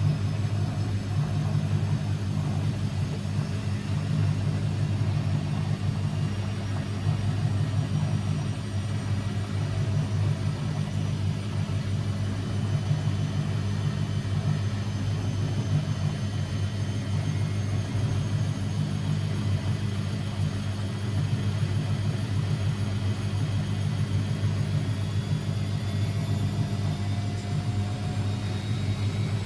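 Constructa Energy 1000s washing machine running steadily: a continuous low drum-and-motor rumble without pauses, with faint high motor whines slowly drifting in pitch.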